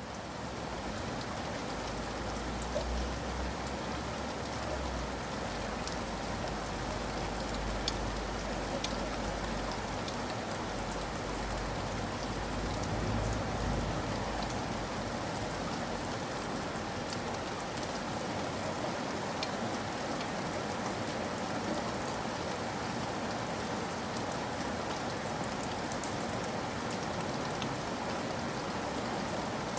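Steady heavy rain falling, an even hiss with scattered individual drops ticking. A low rumble sits underneath during the first half and fades out about halfway through.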